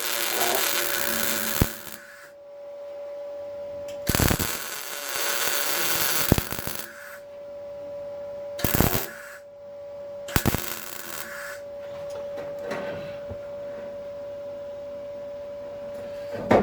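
MIG welder laying short welds on car body steel: crackling bursts of a few seconds and under a second, starting and stopping sharply, with a steady hum running underneath between the bursts.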